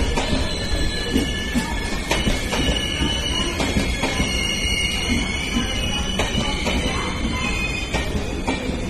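Indian Railways LHB coaches rolling past: a steady, loud rumble of wheels on rail, with high steady squealing tones and occasional sharp clicks.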